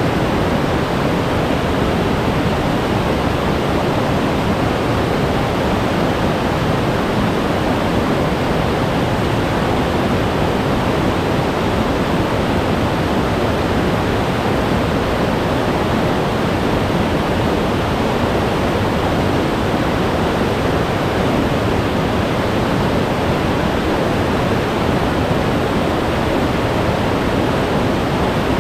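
Glacier-fed mountain stream rushing steadily over rocks, a loud, even wash of white water.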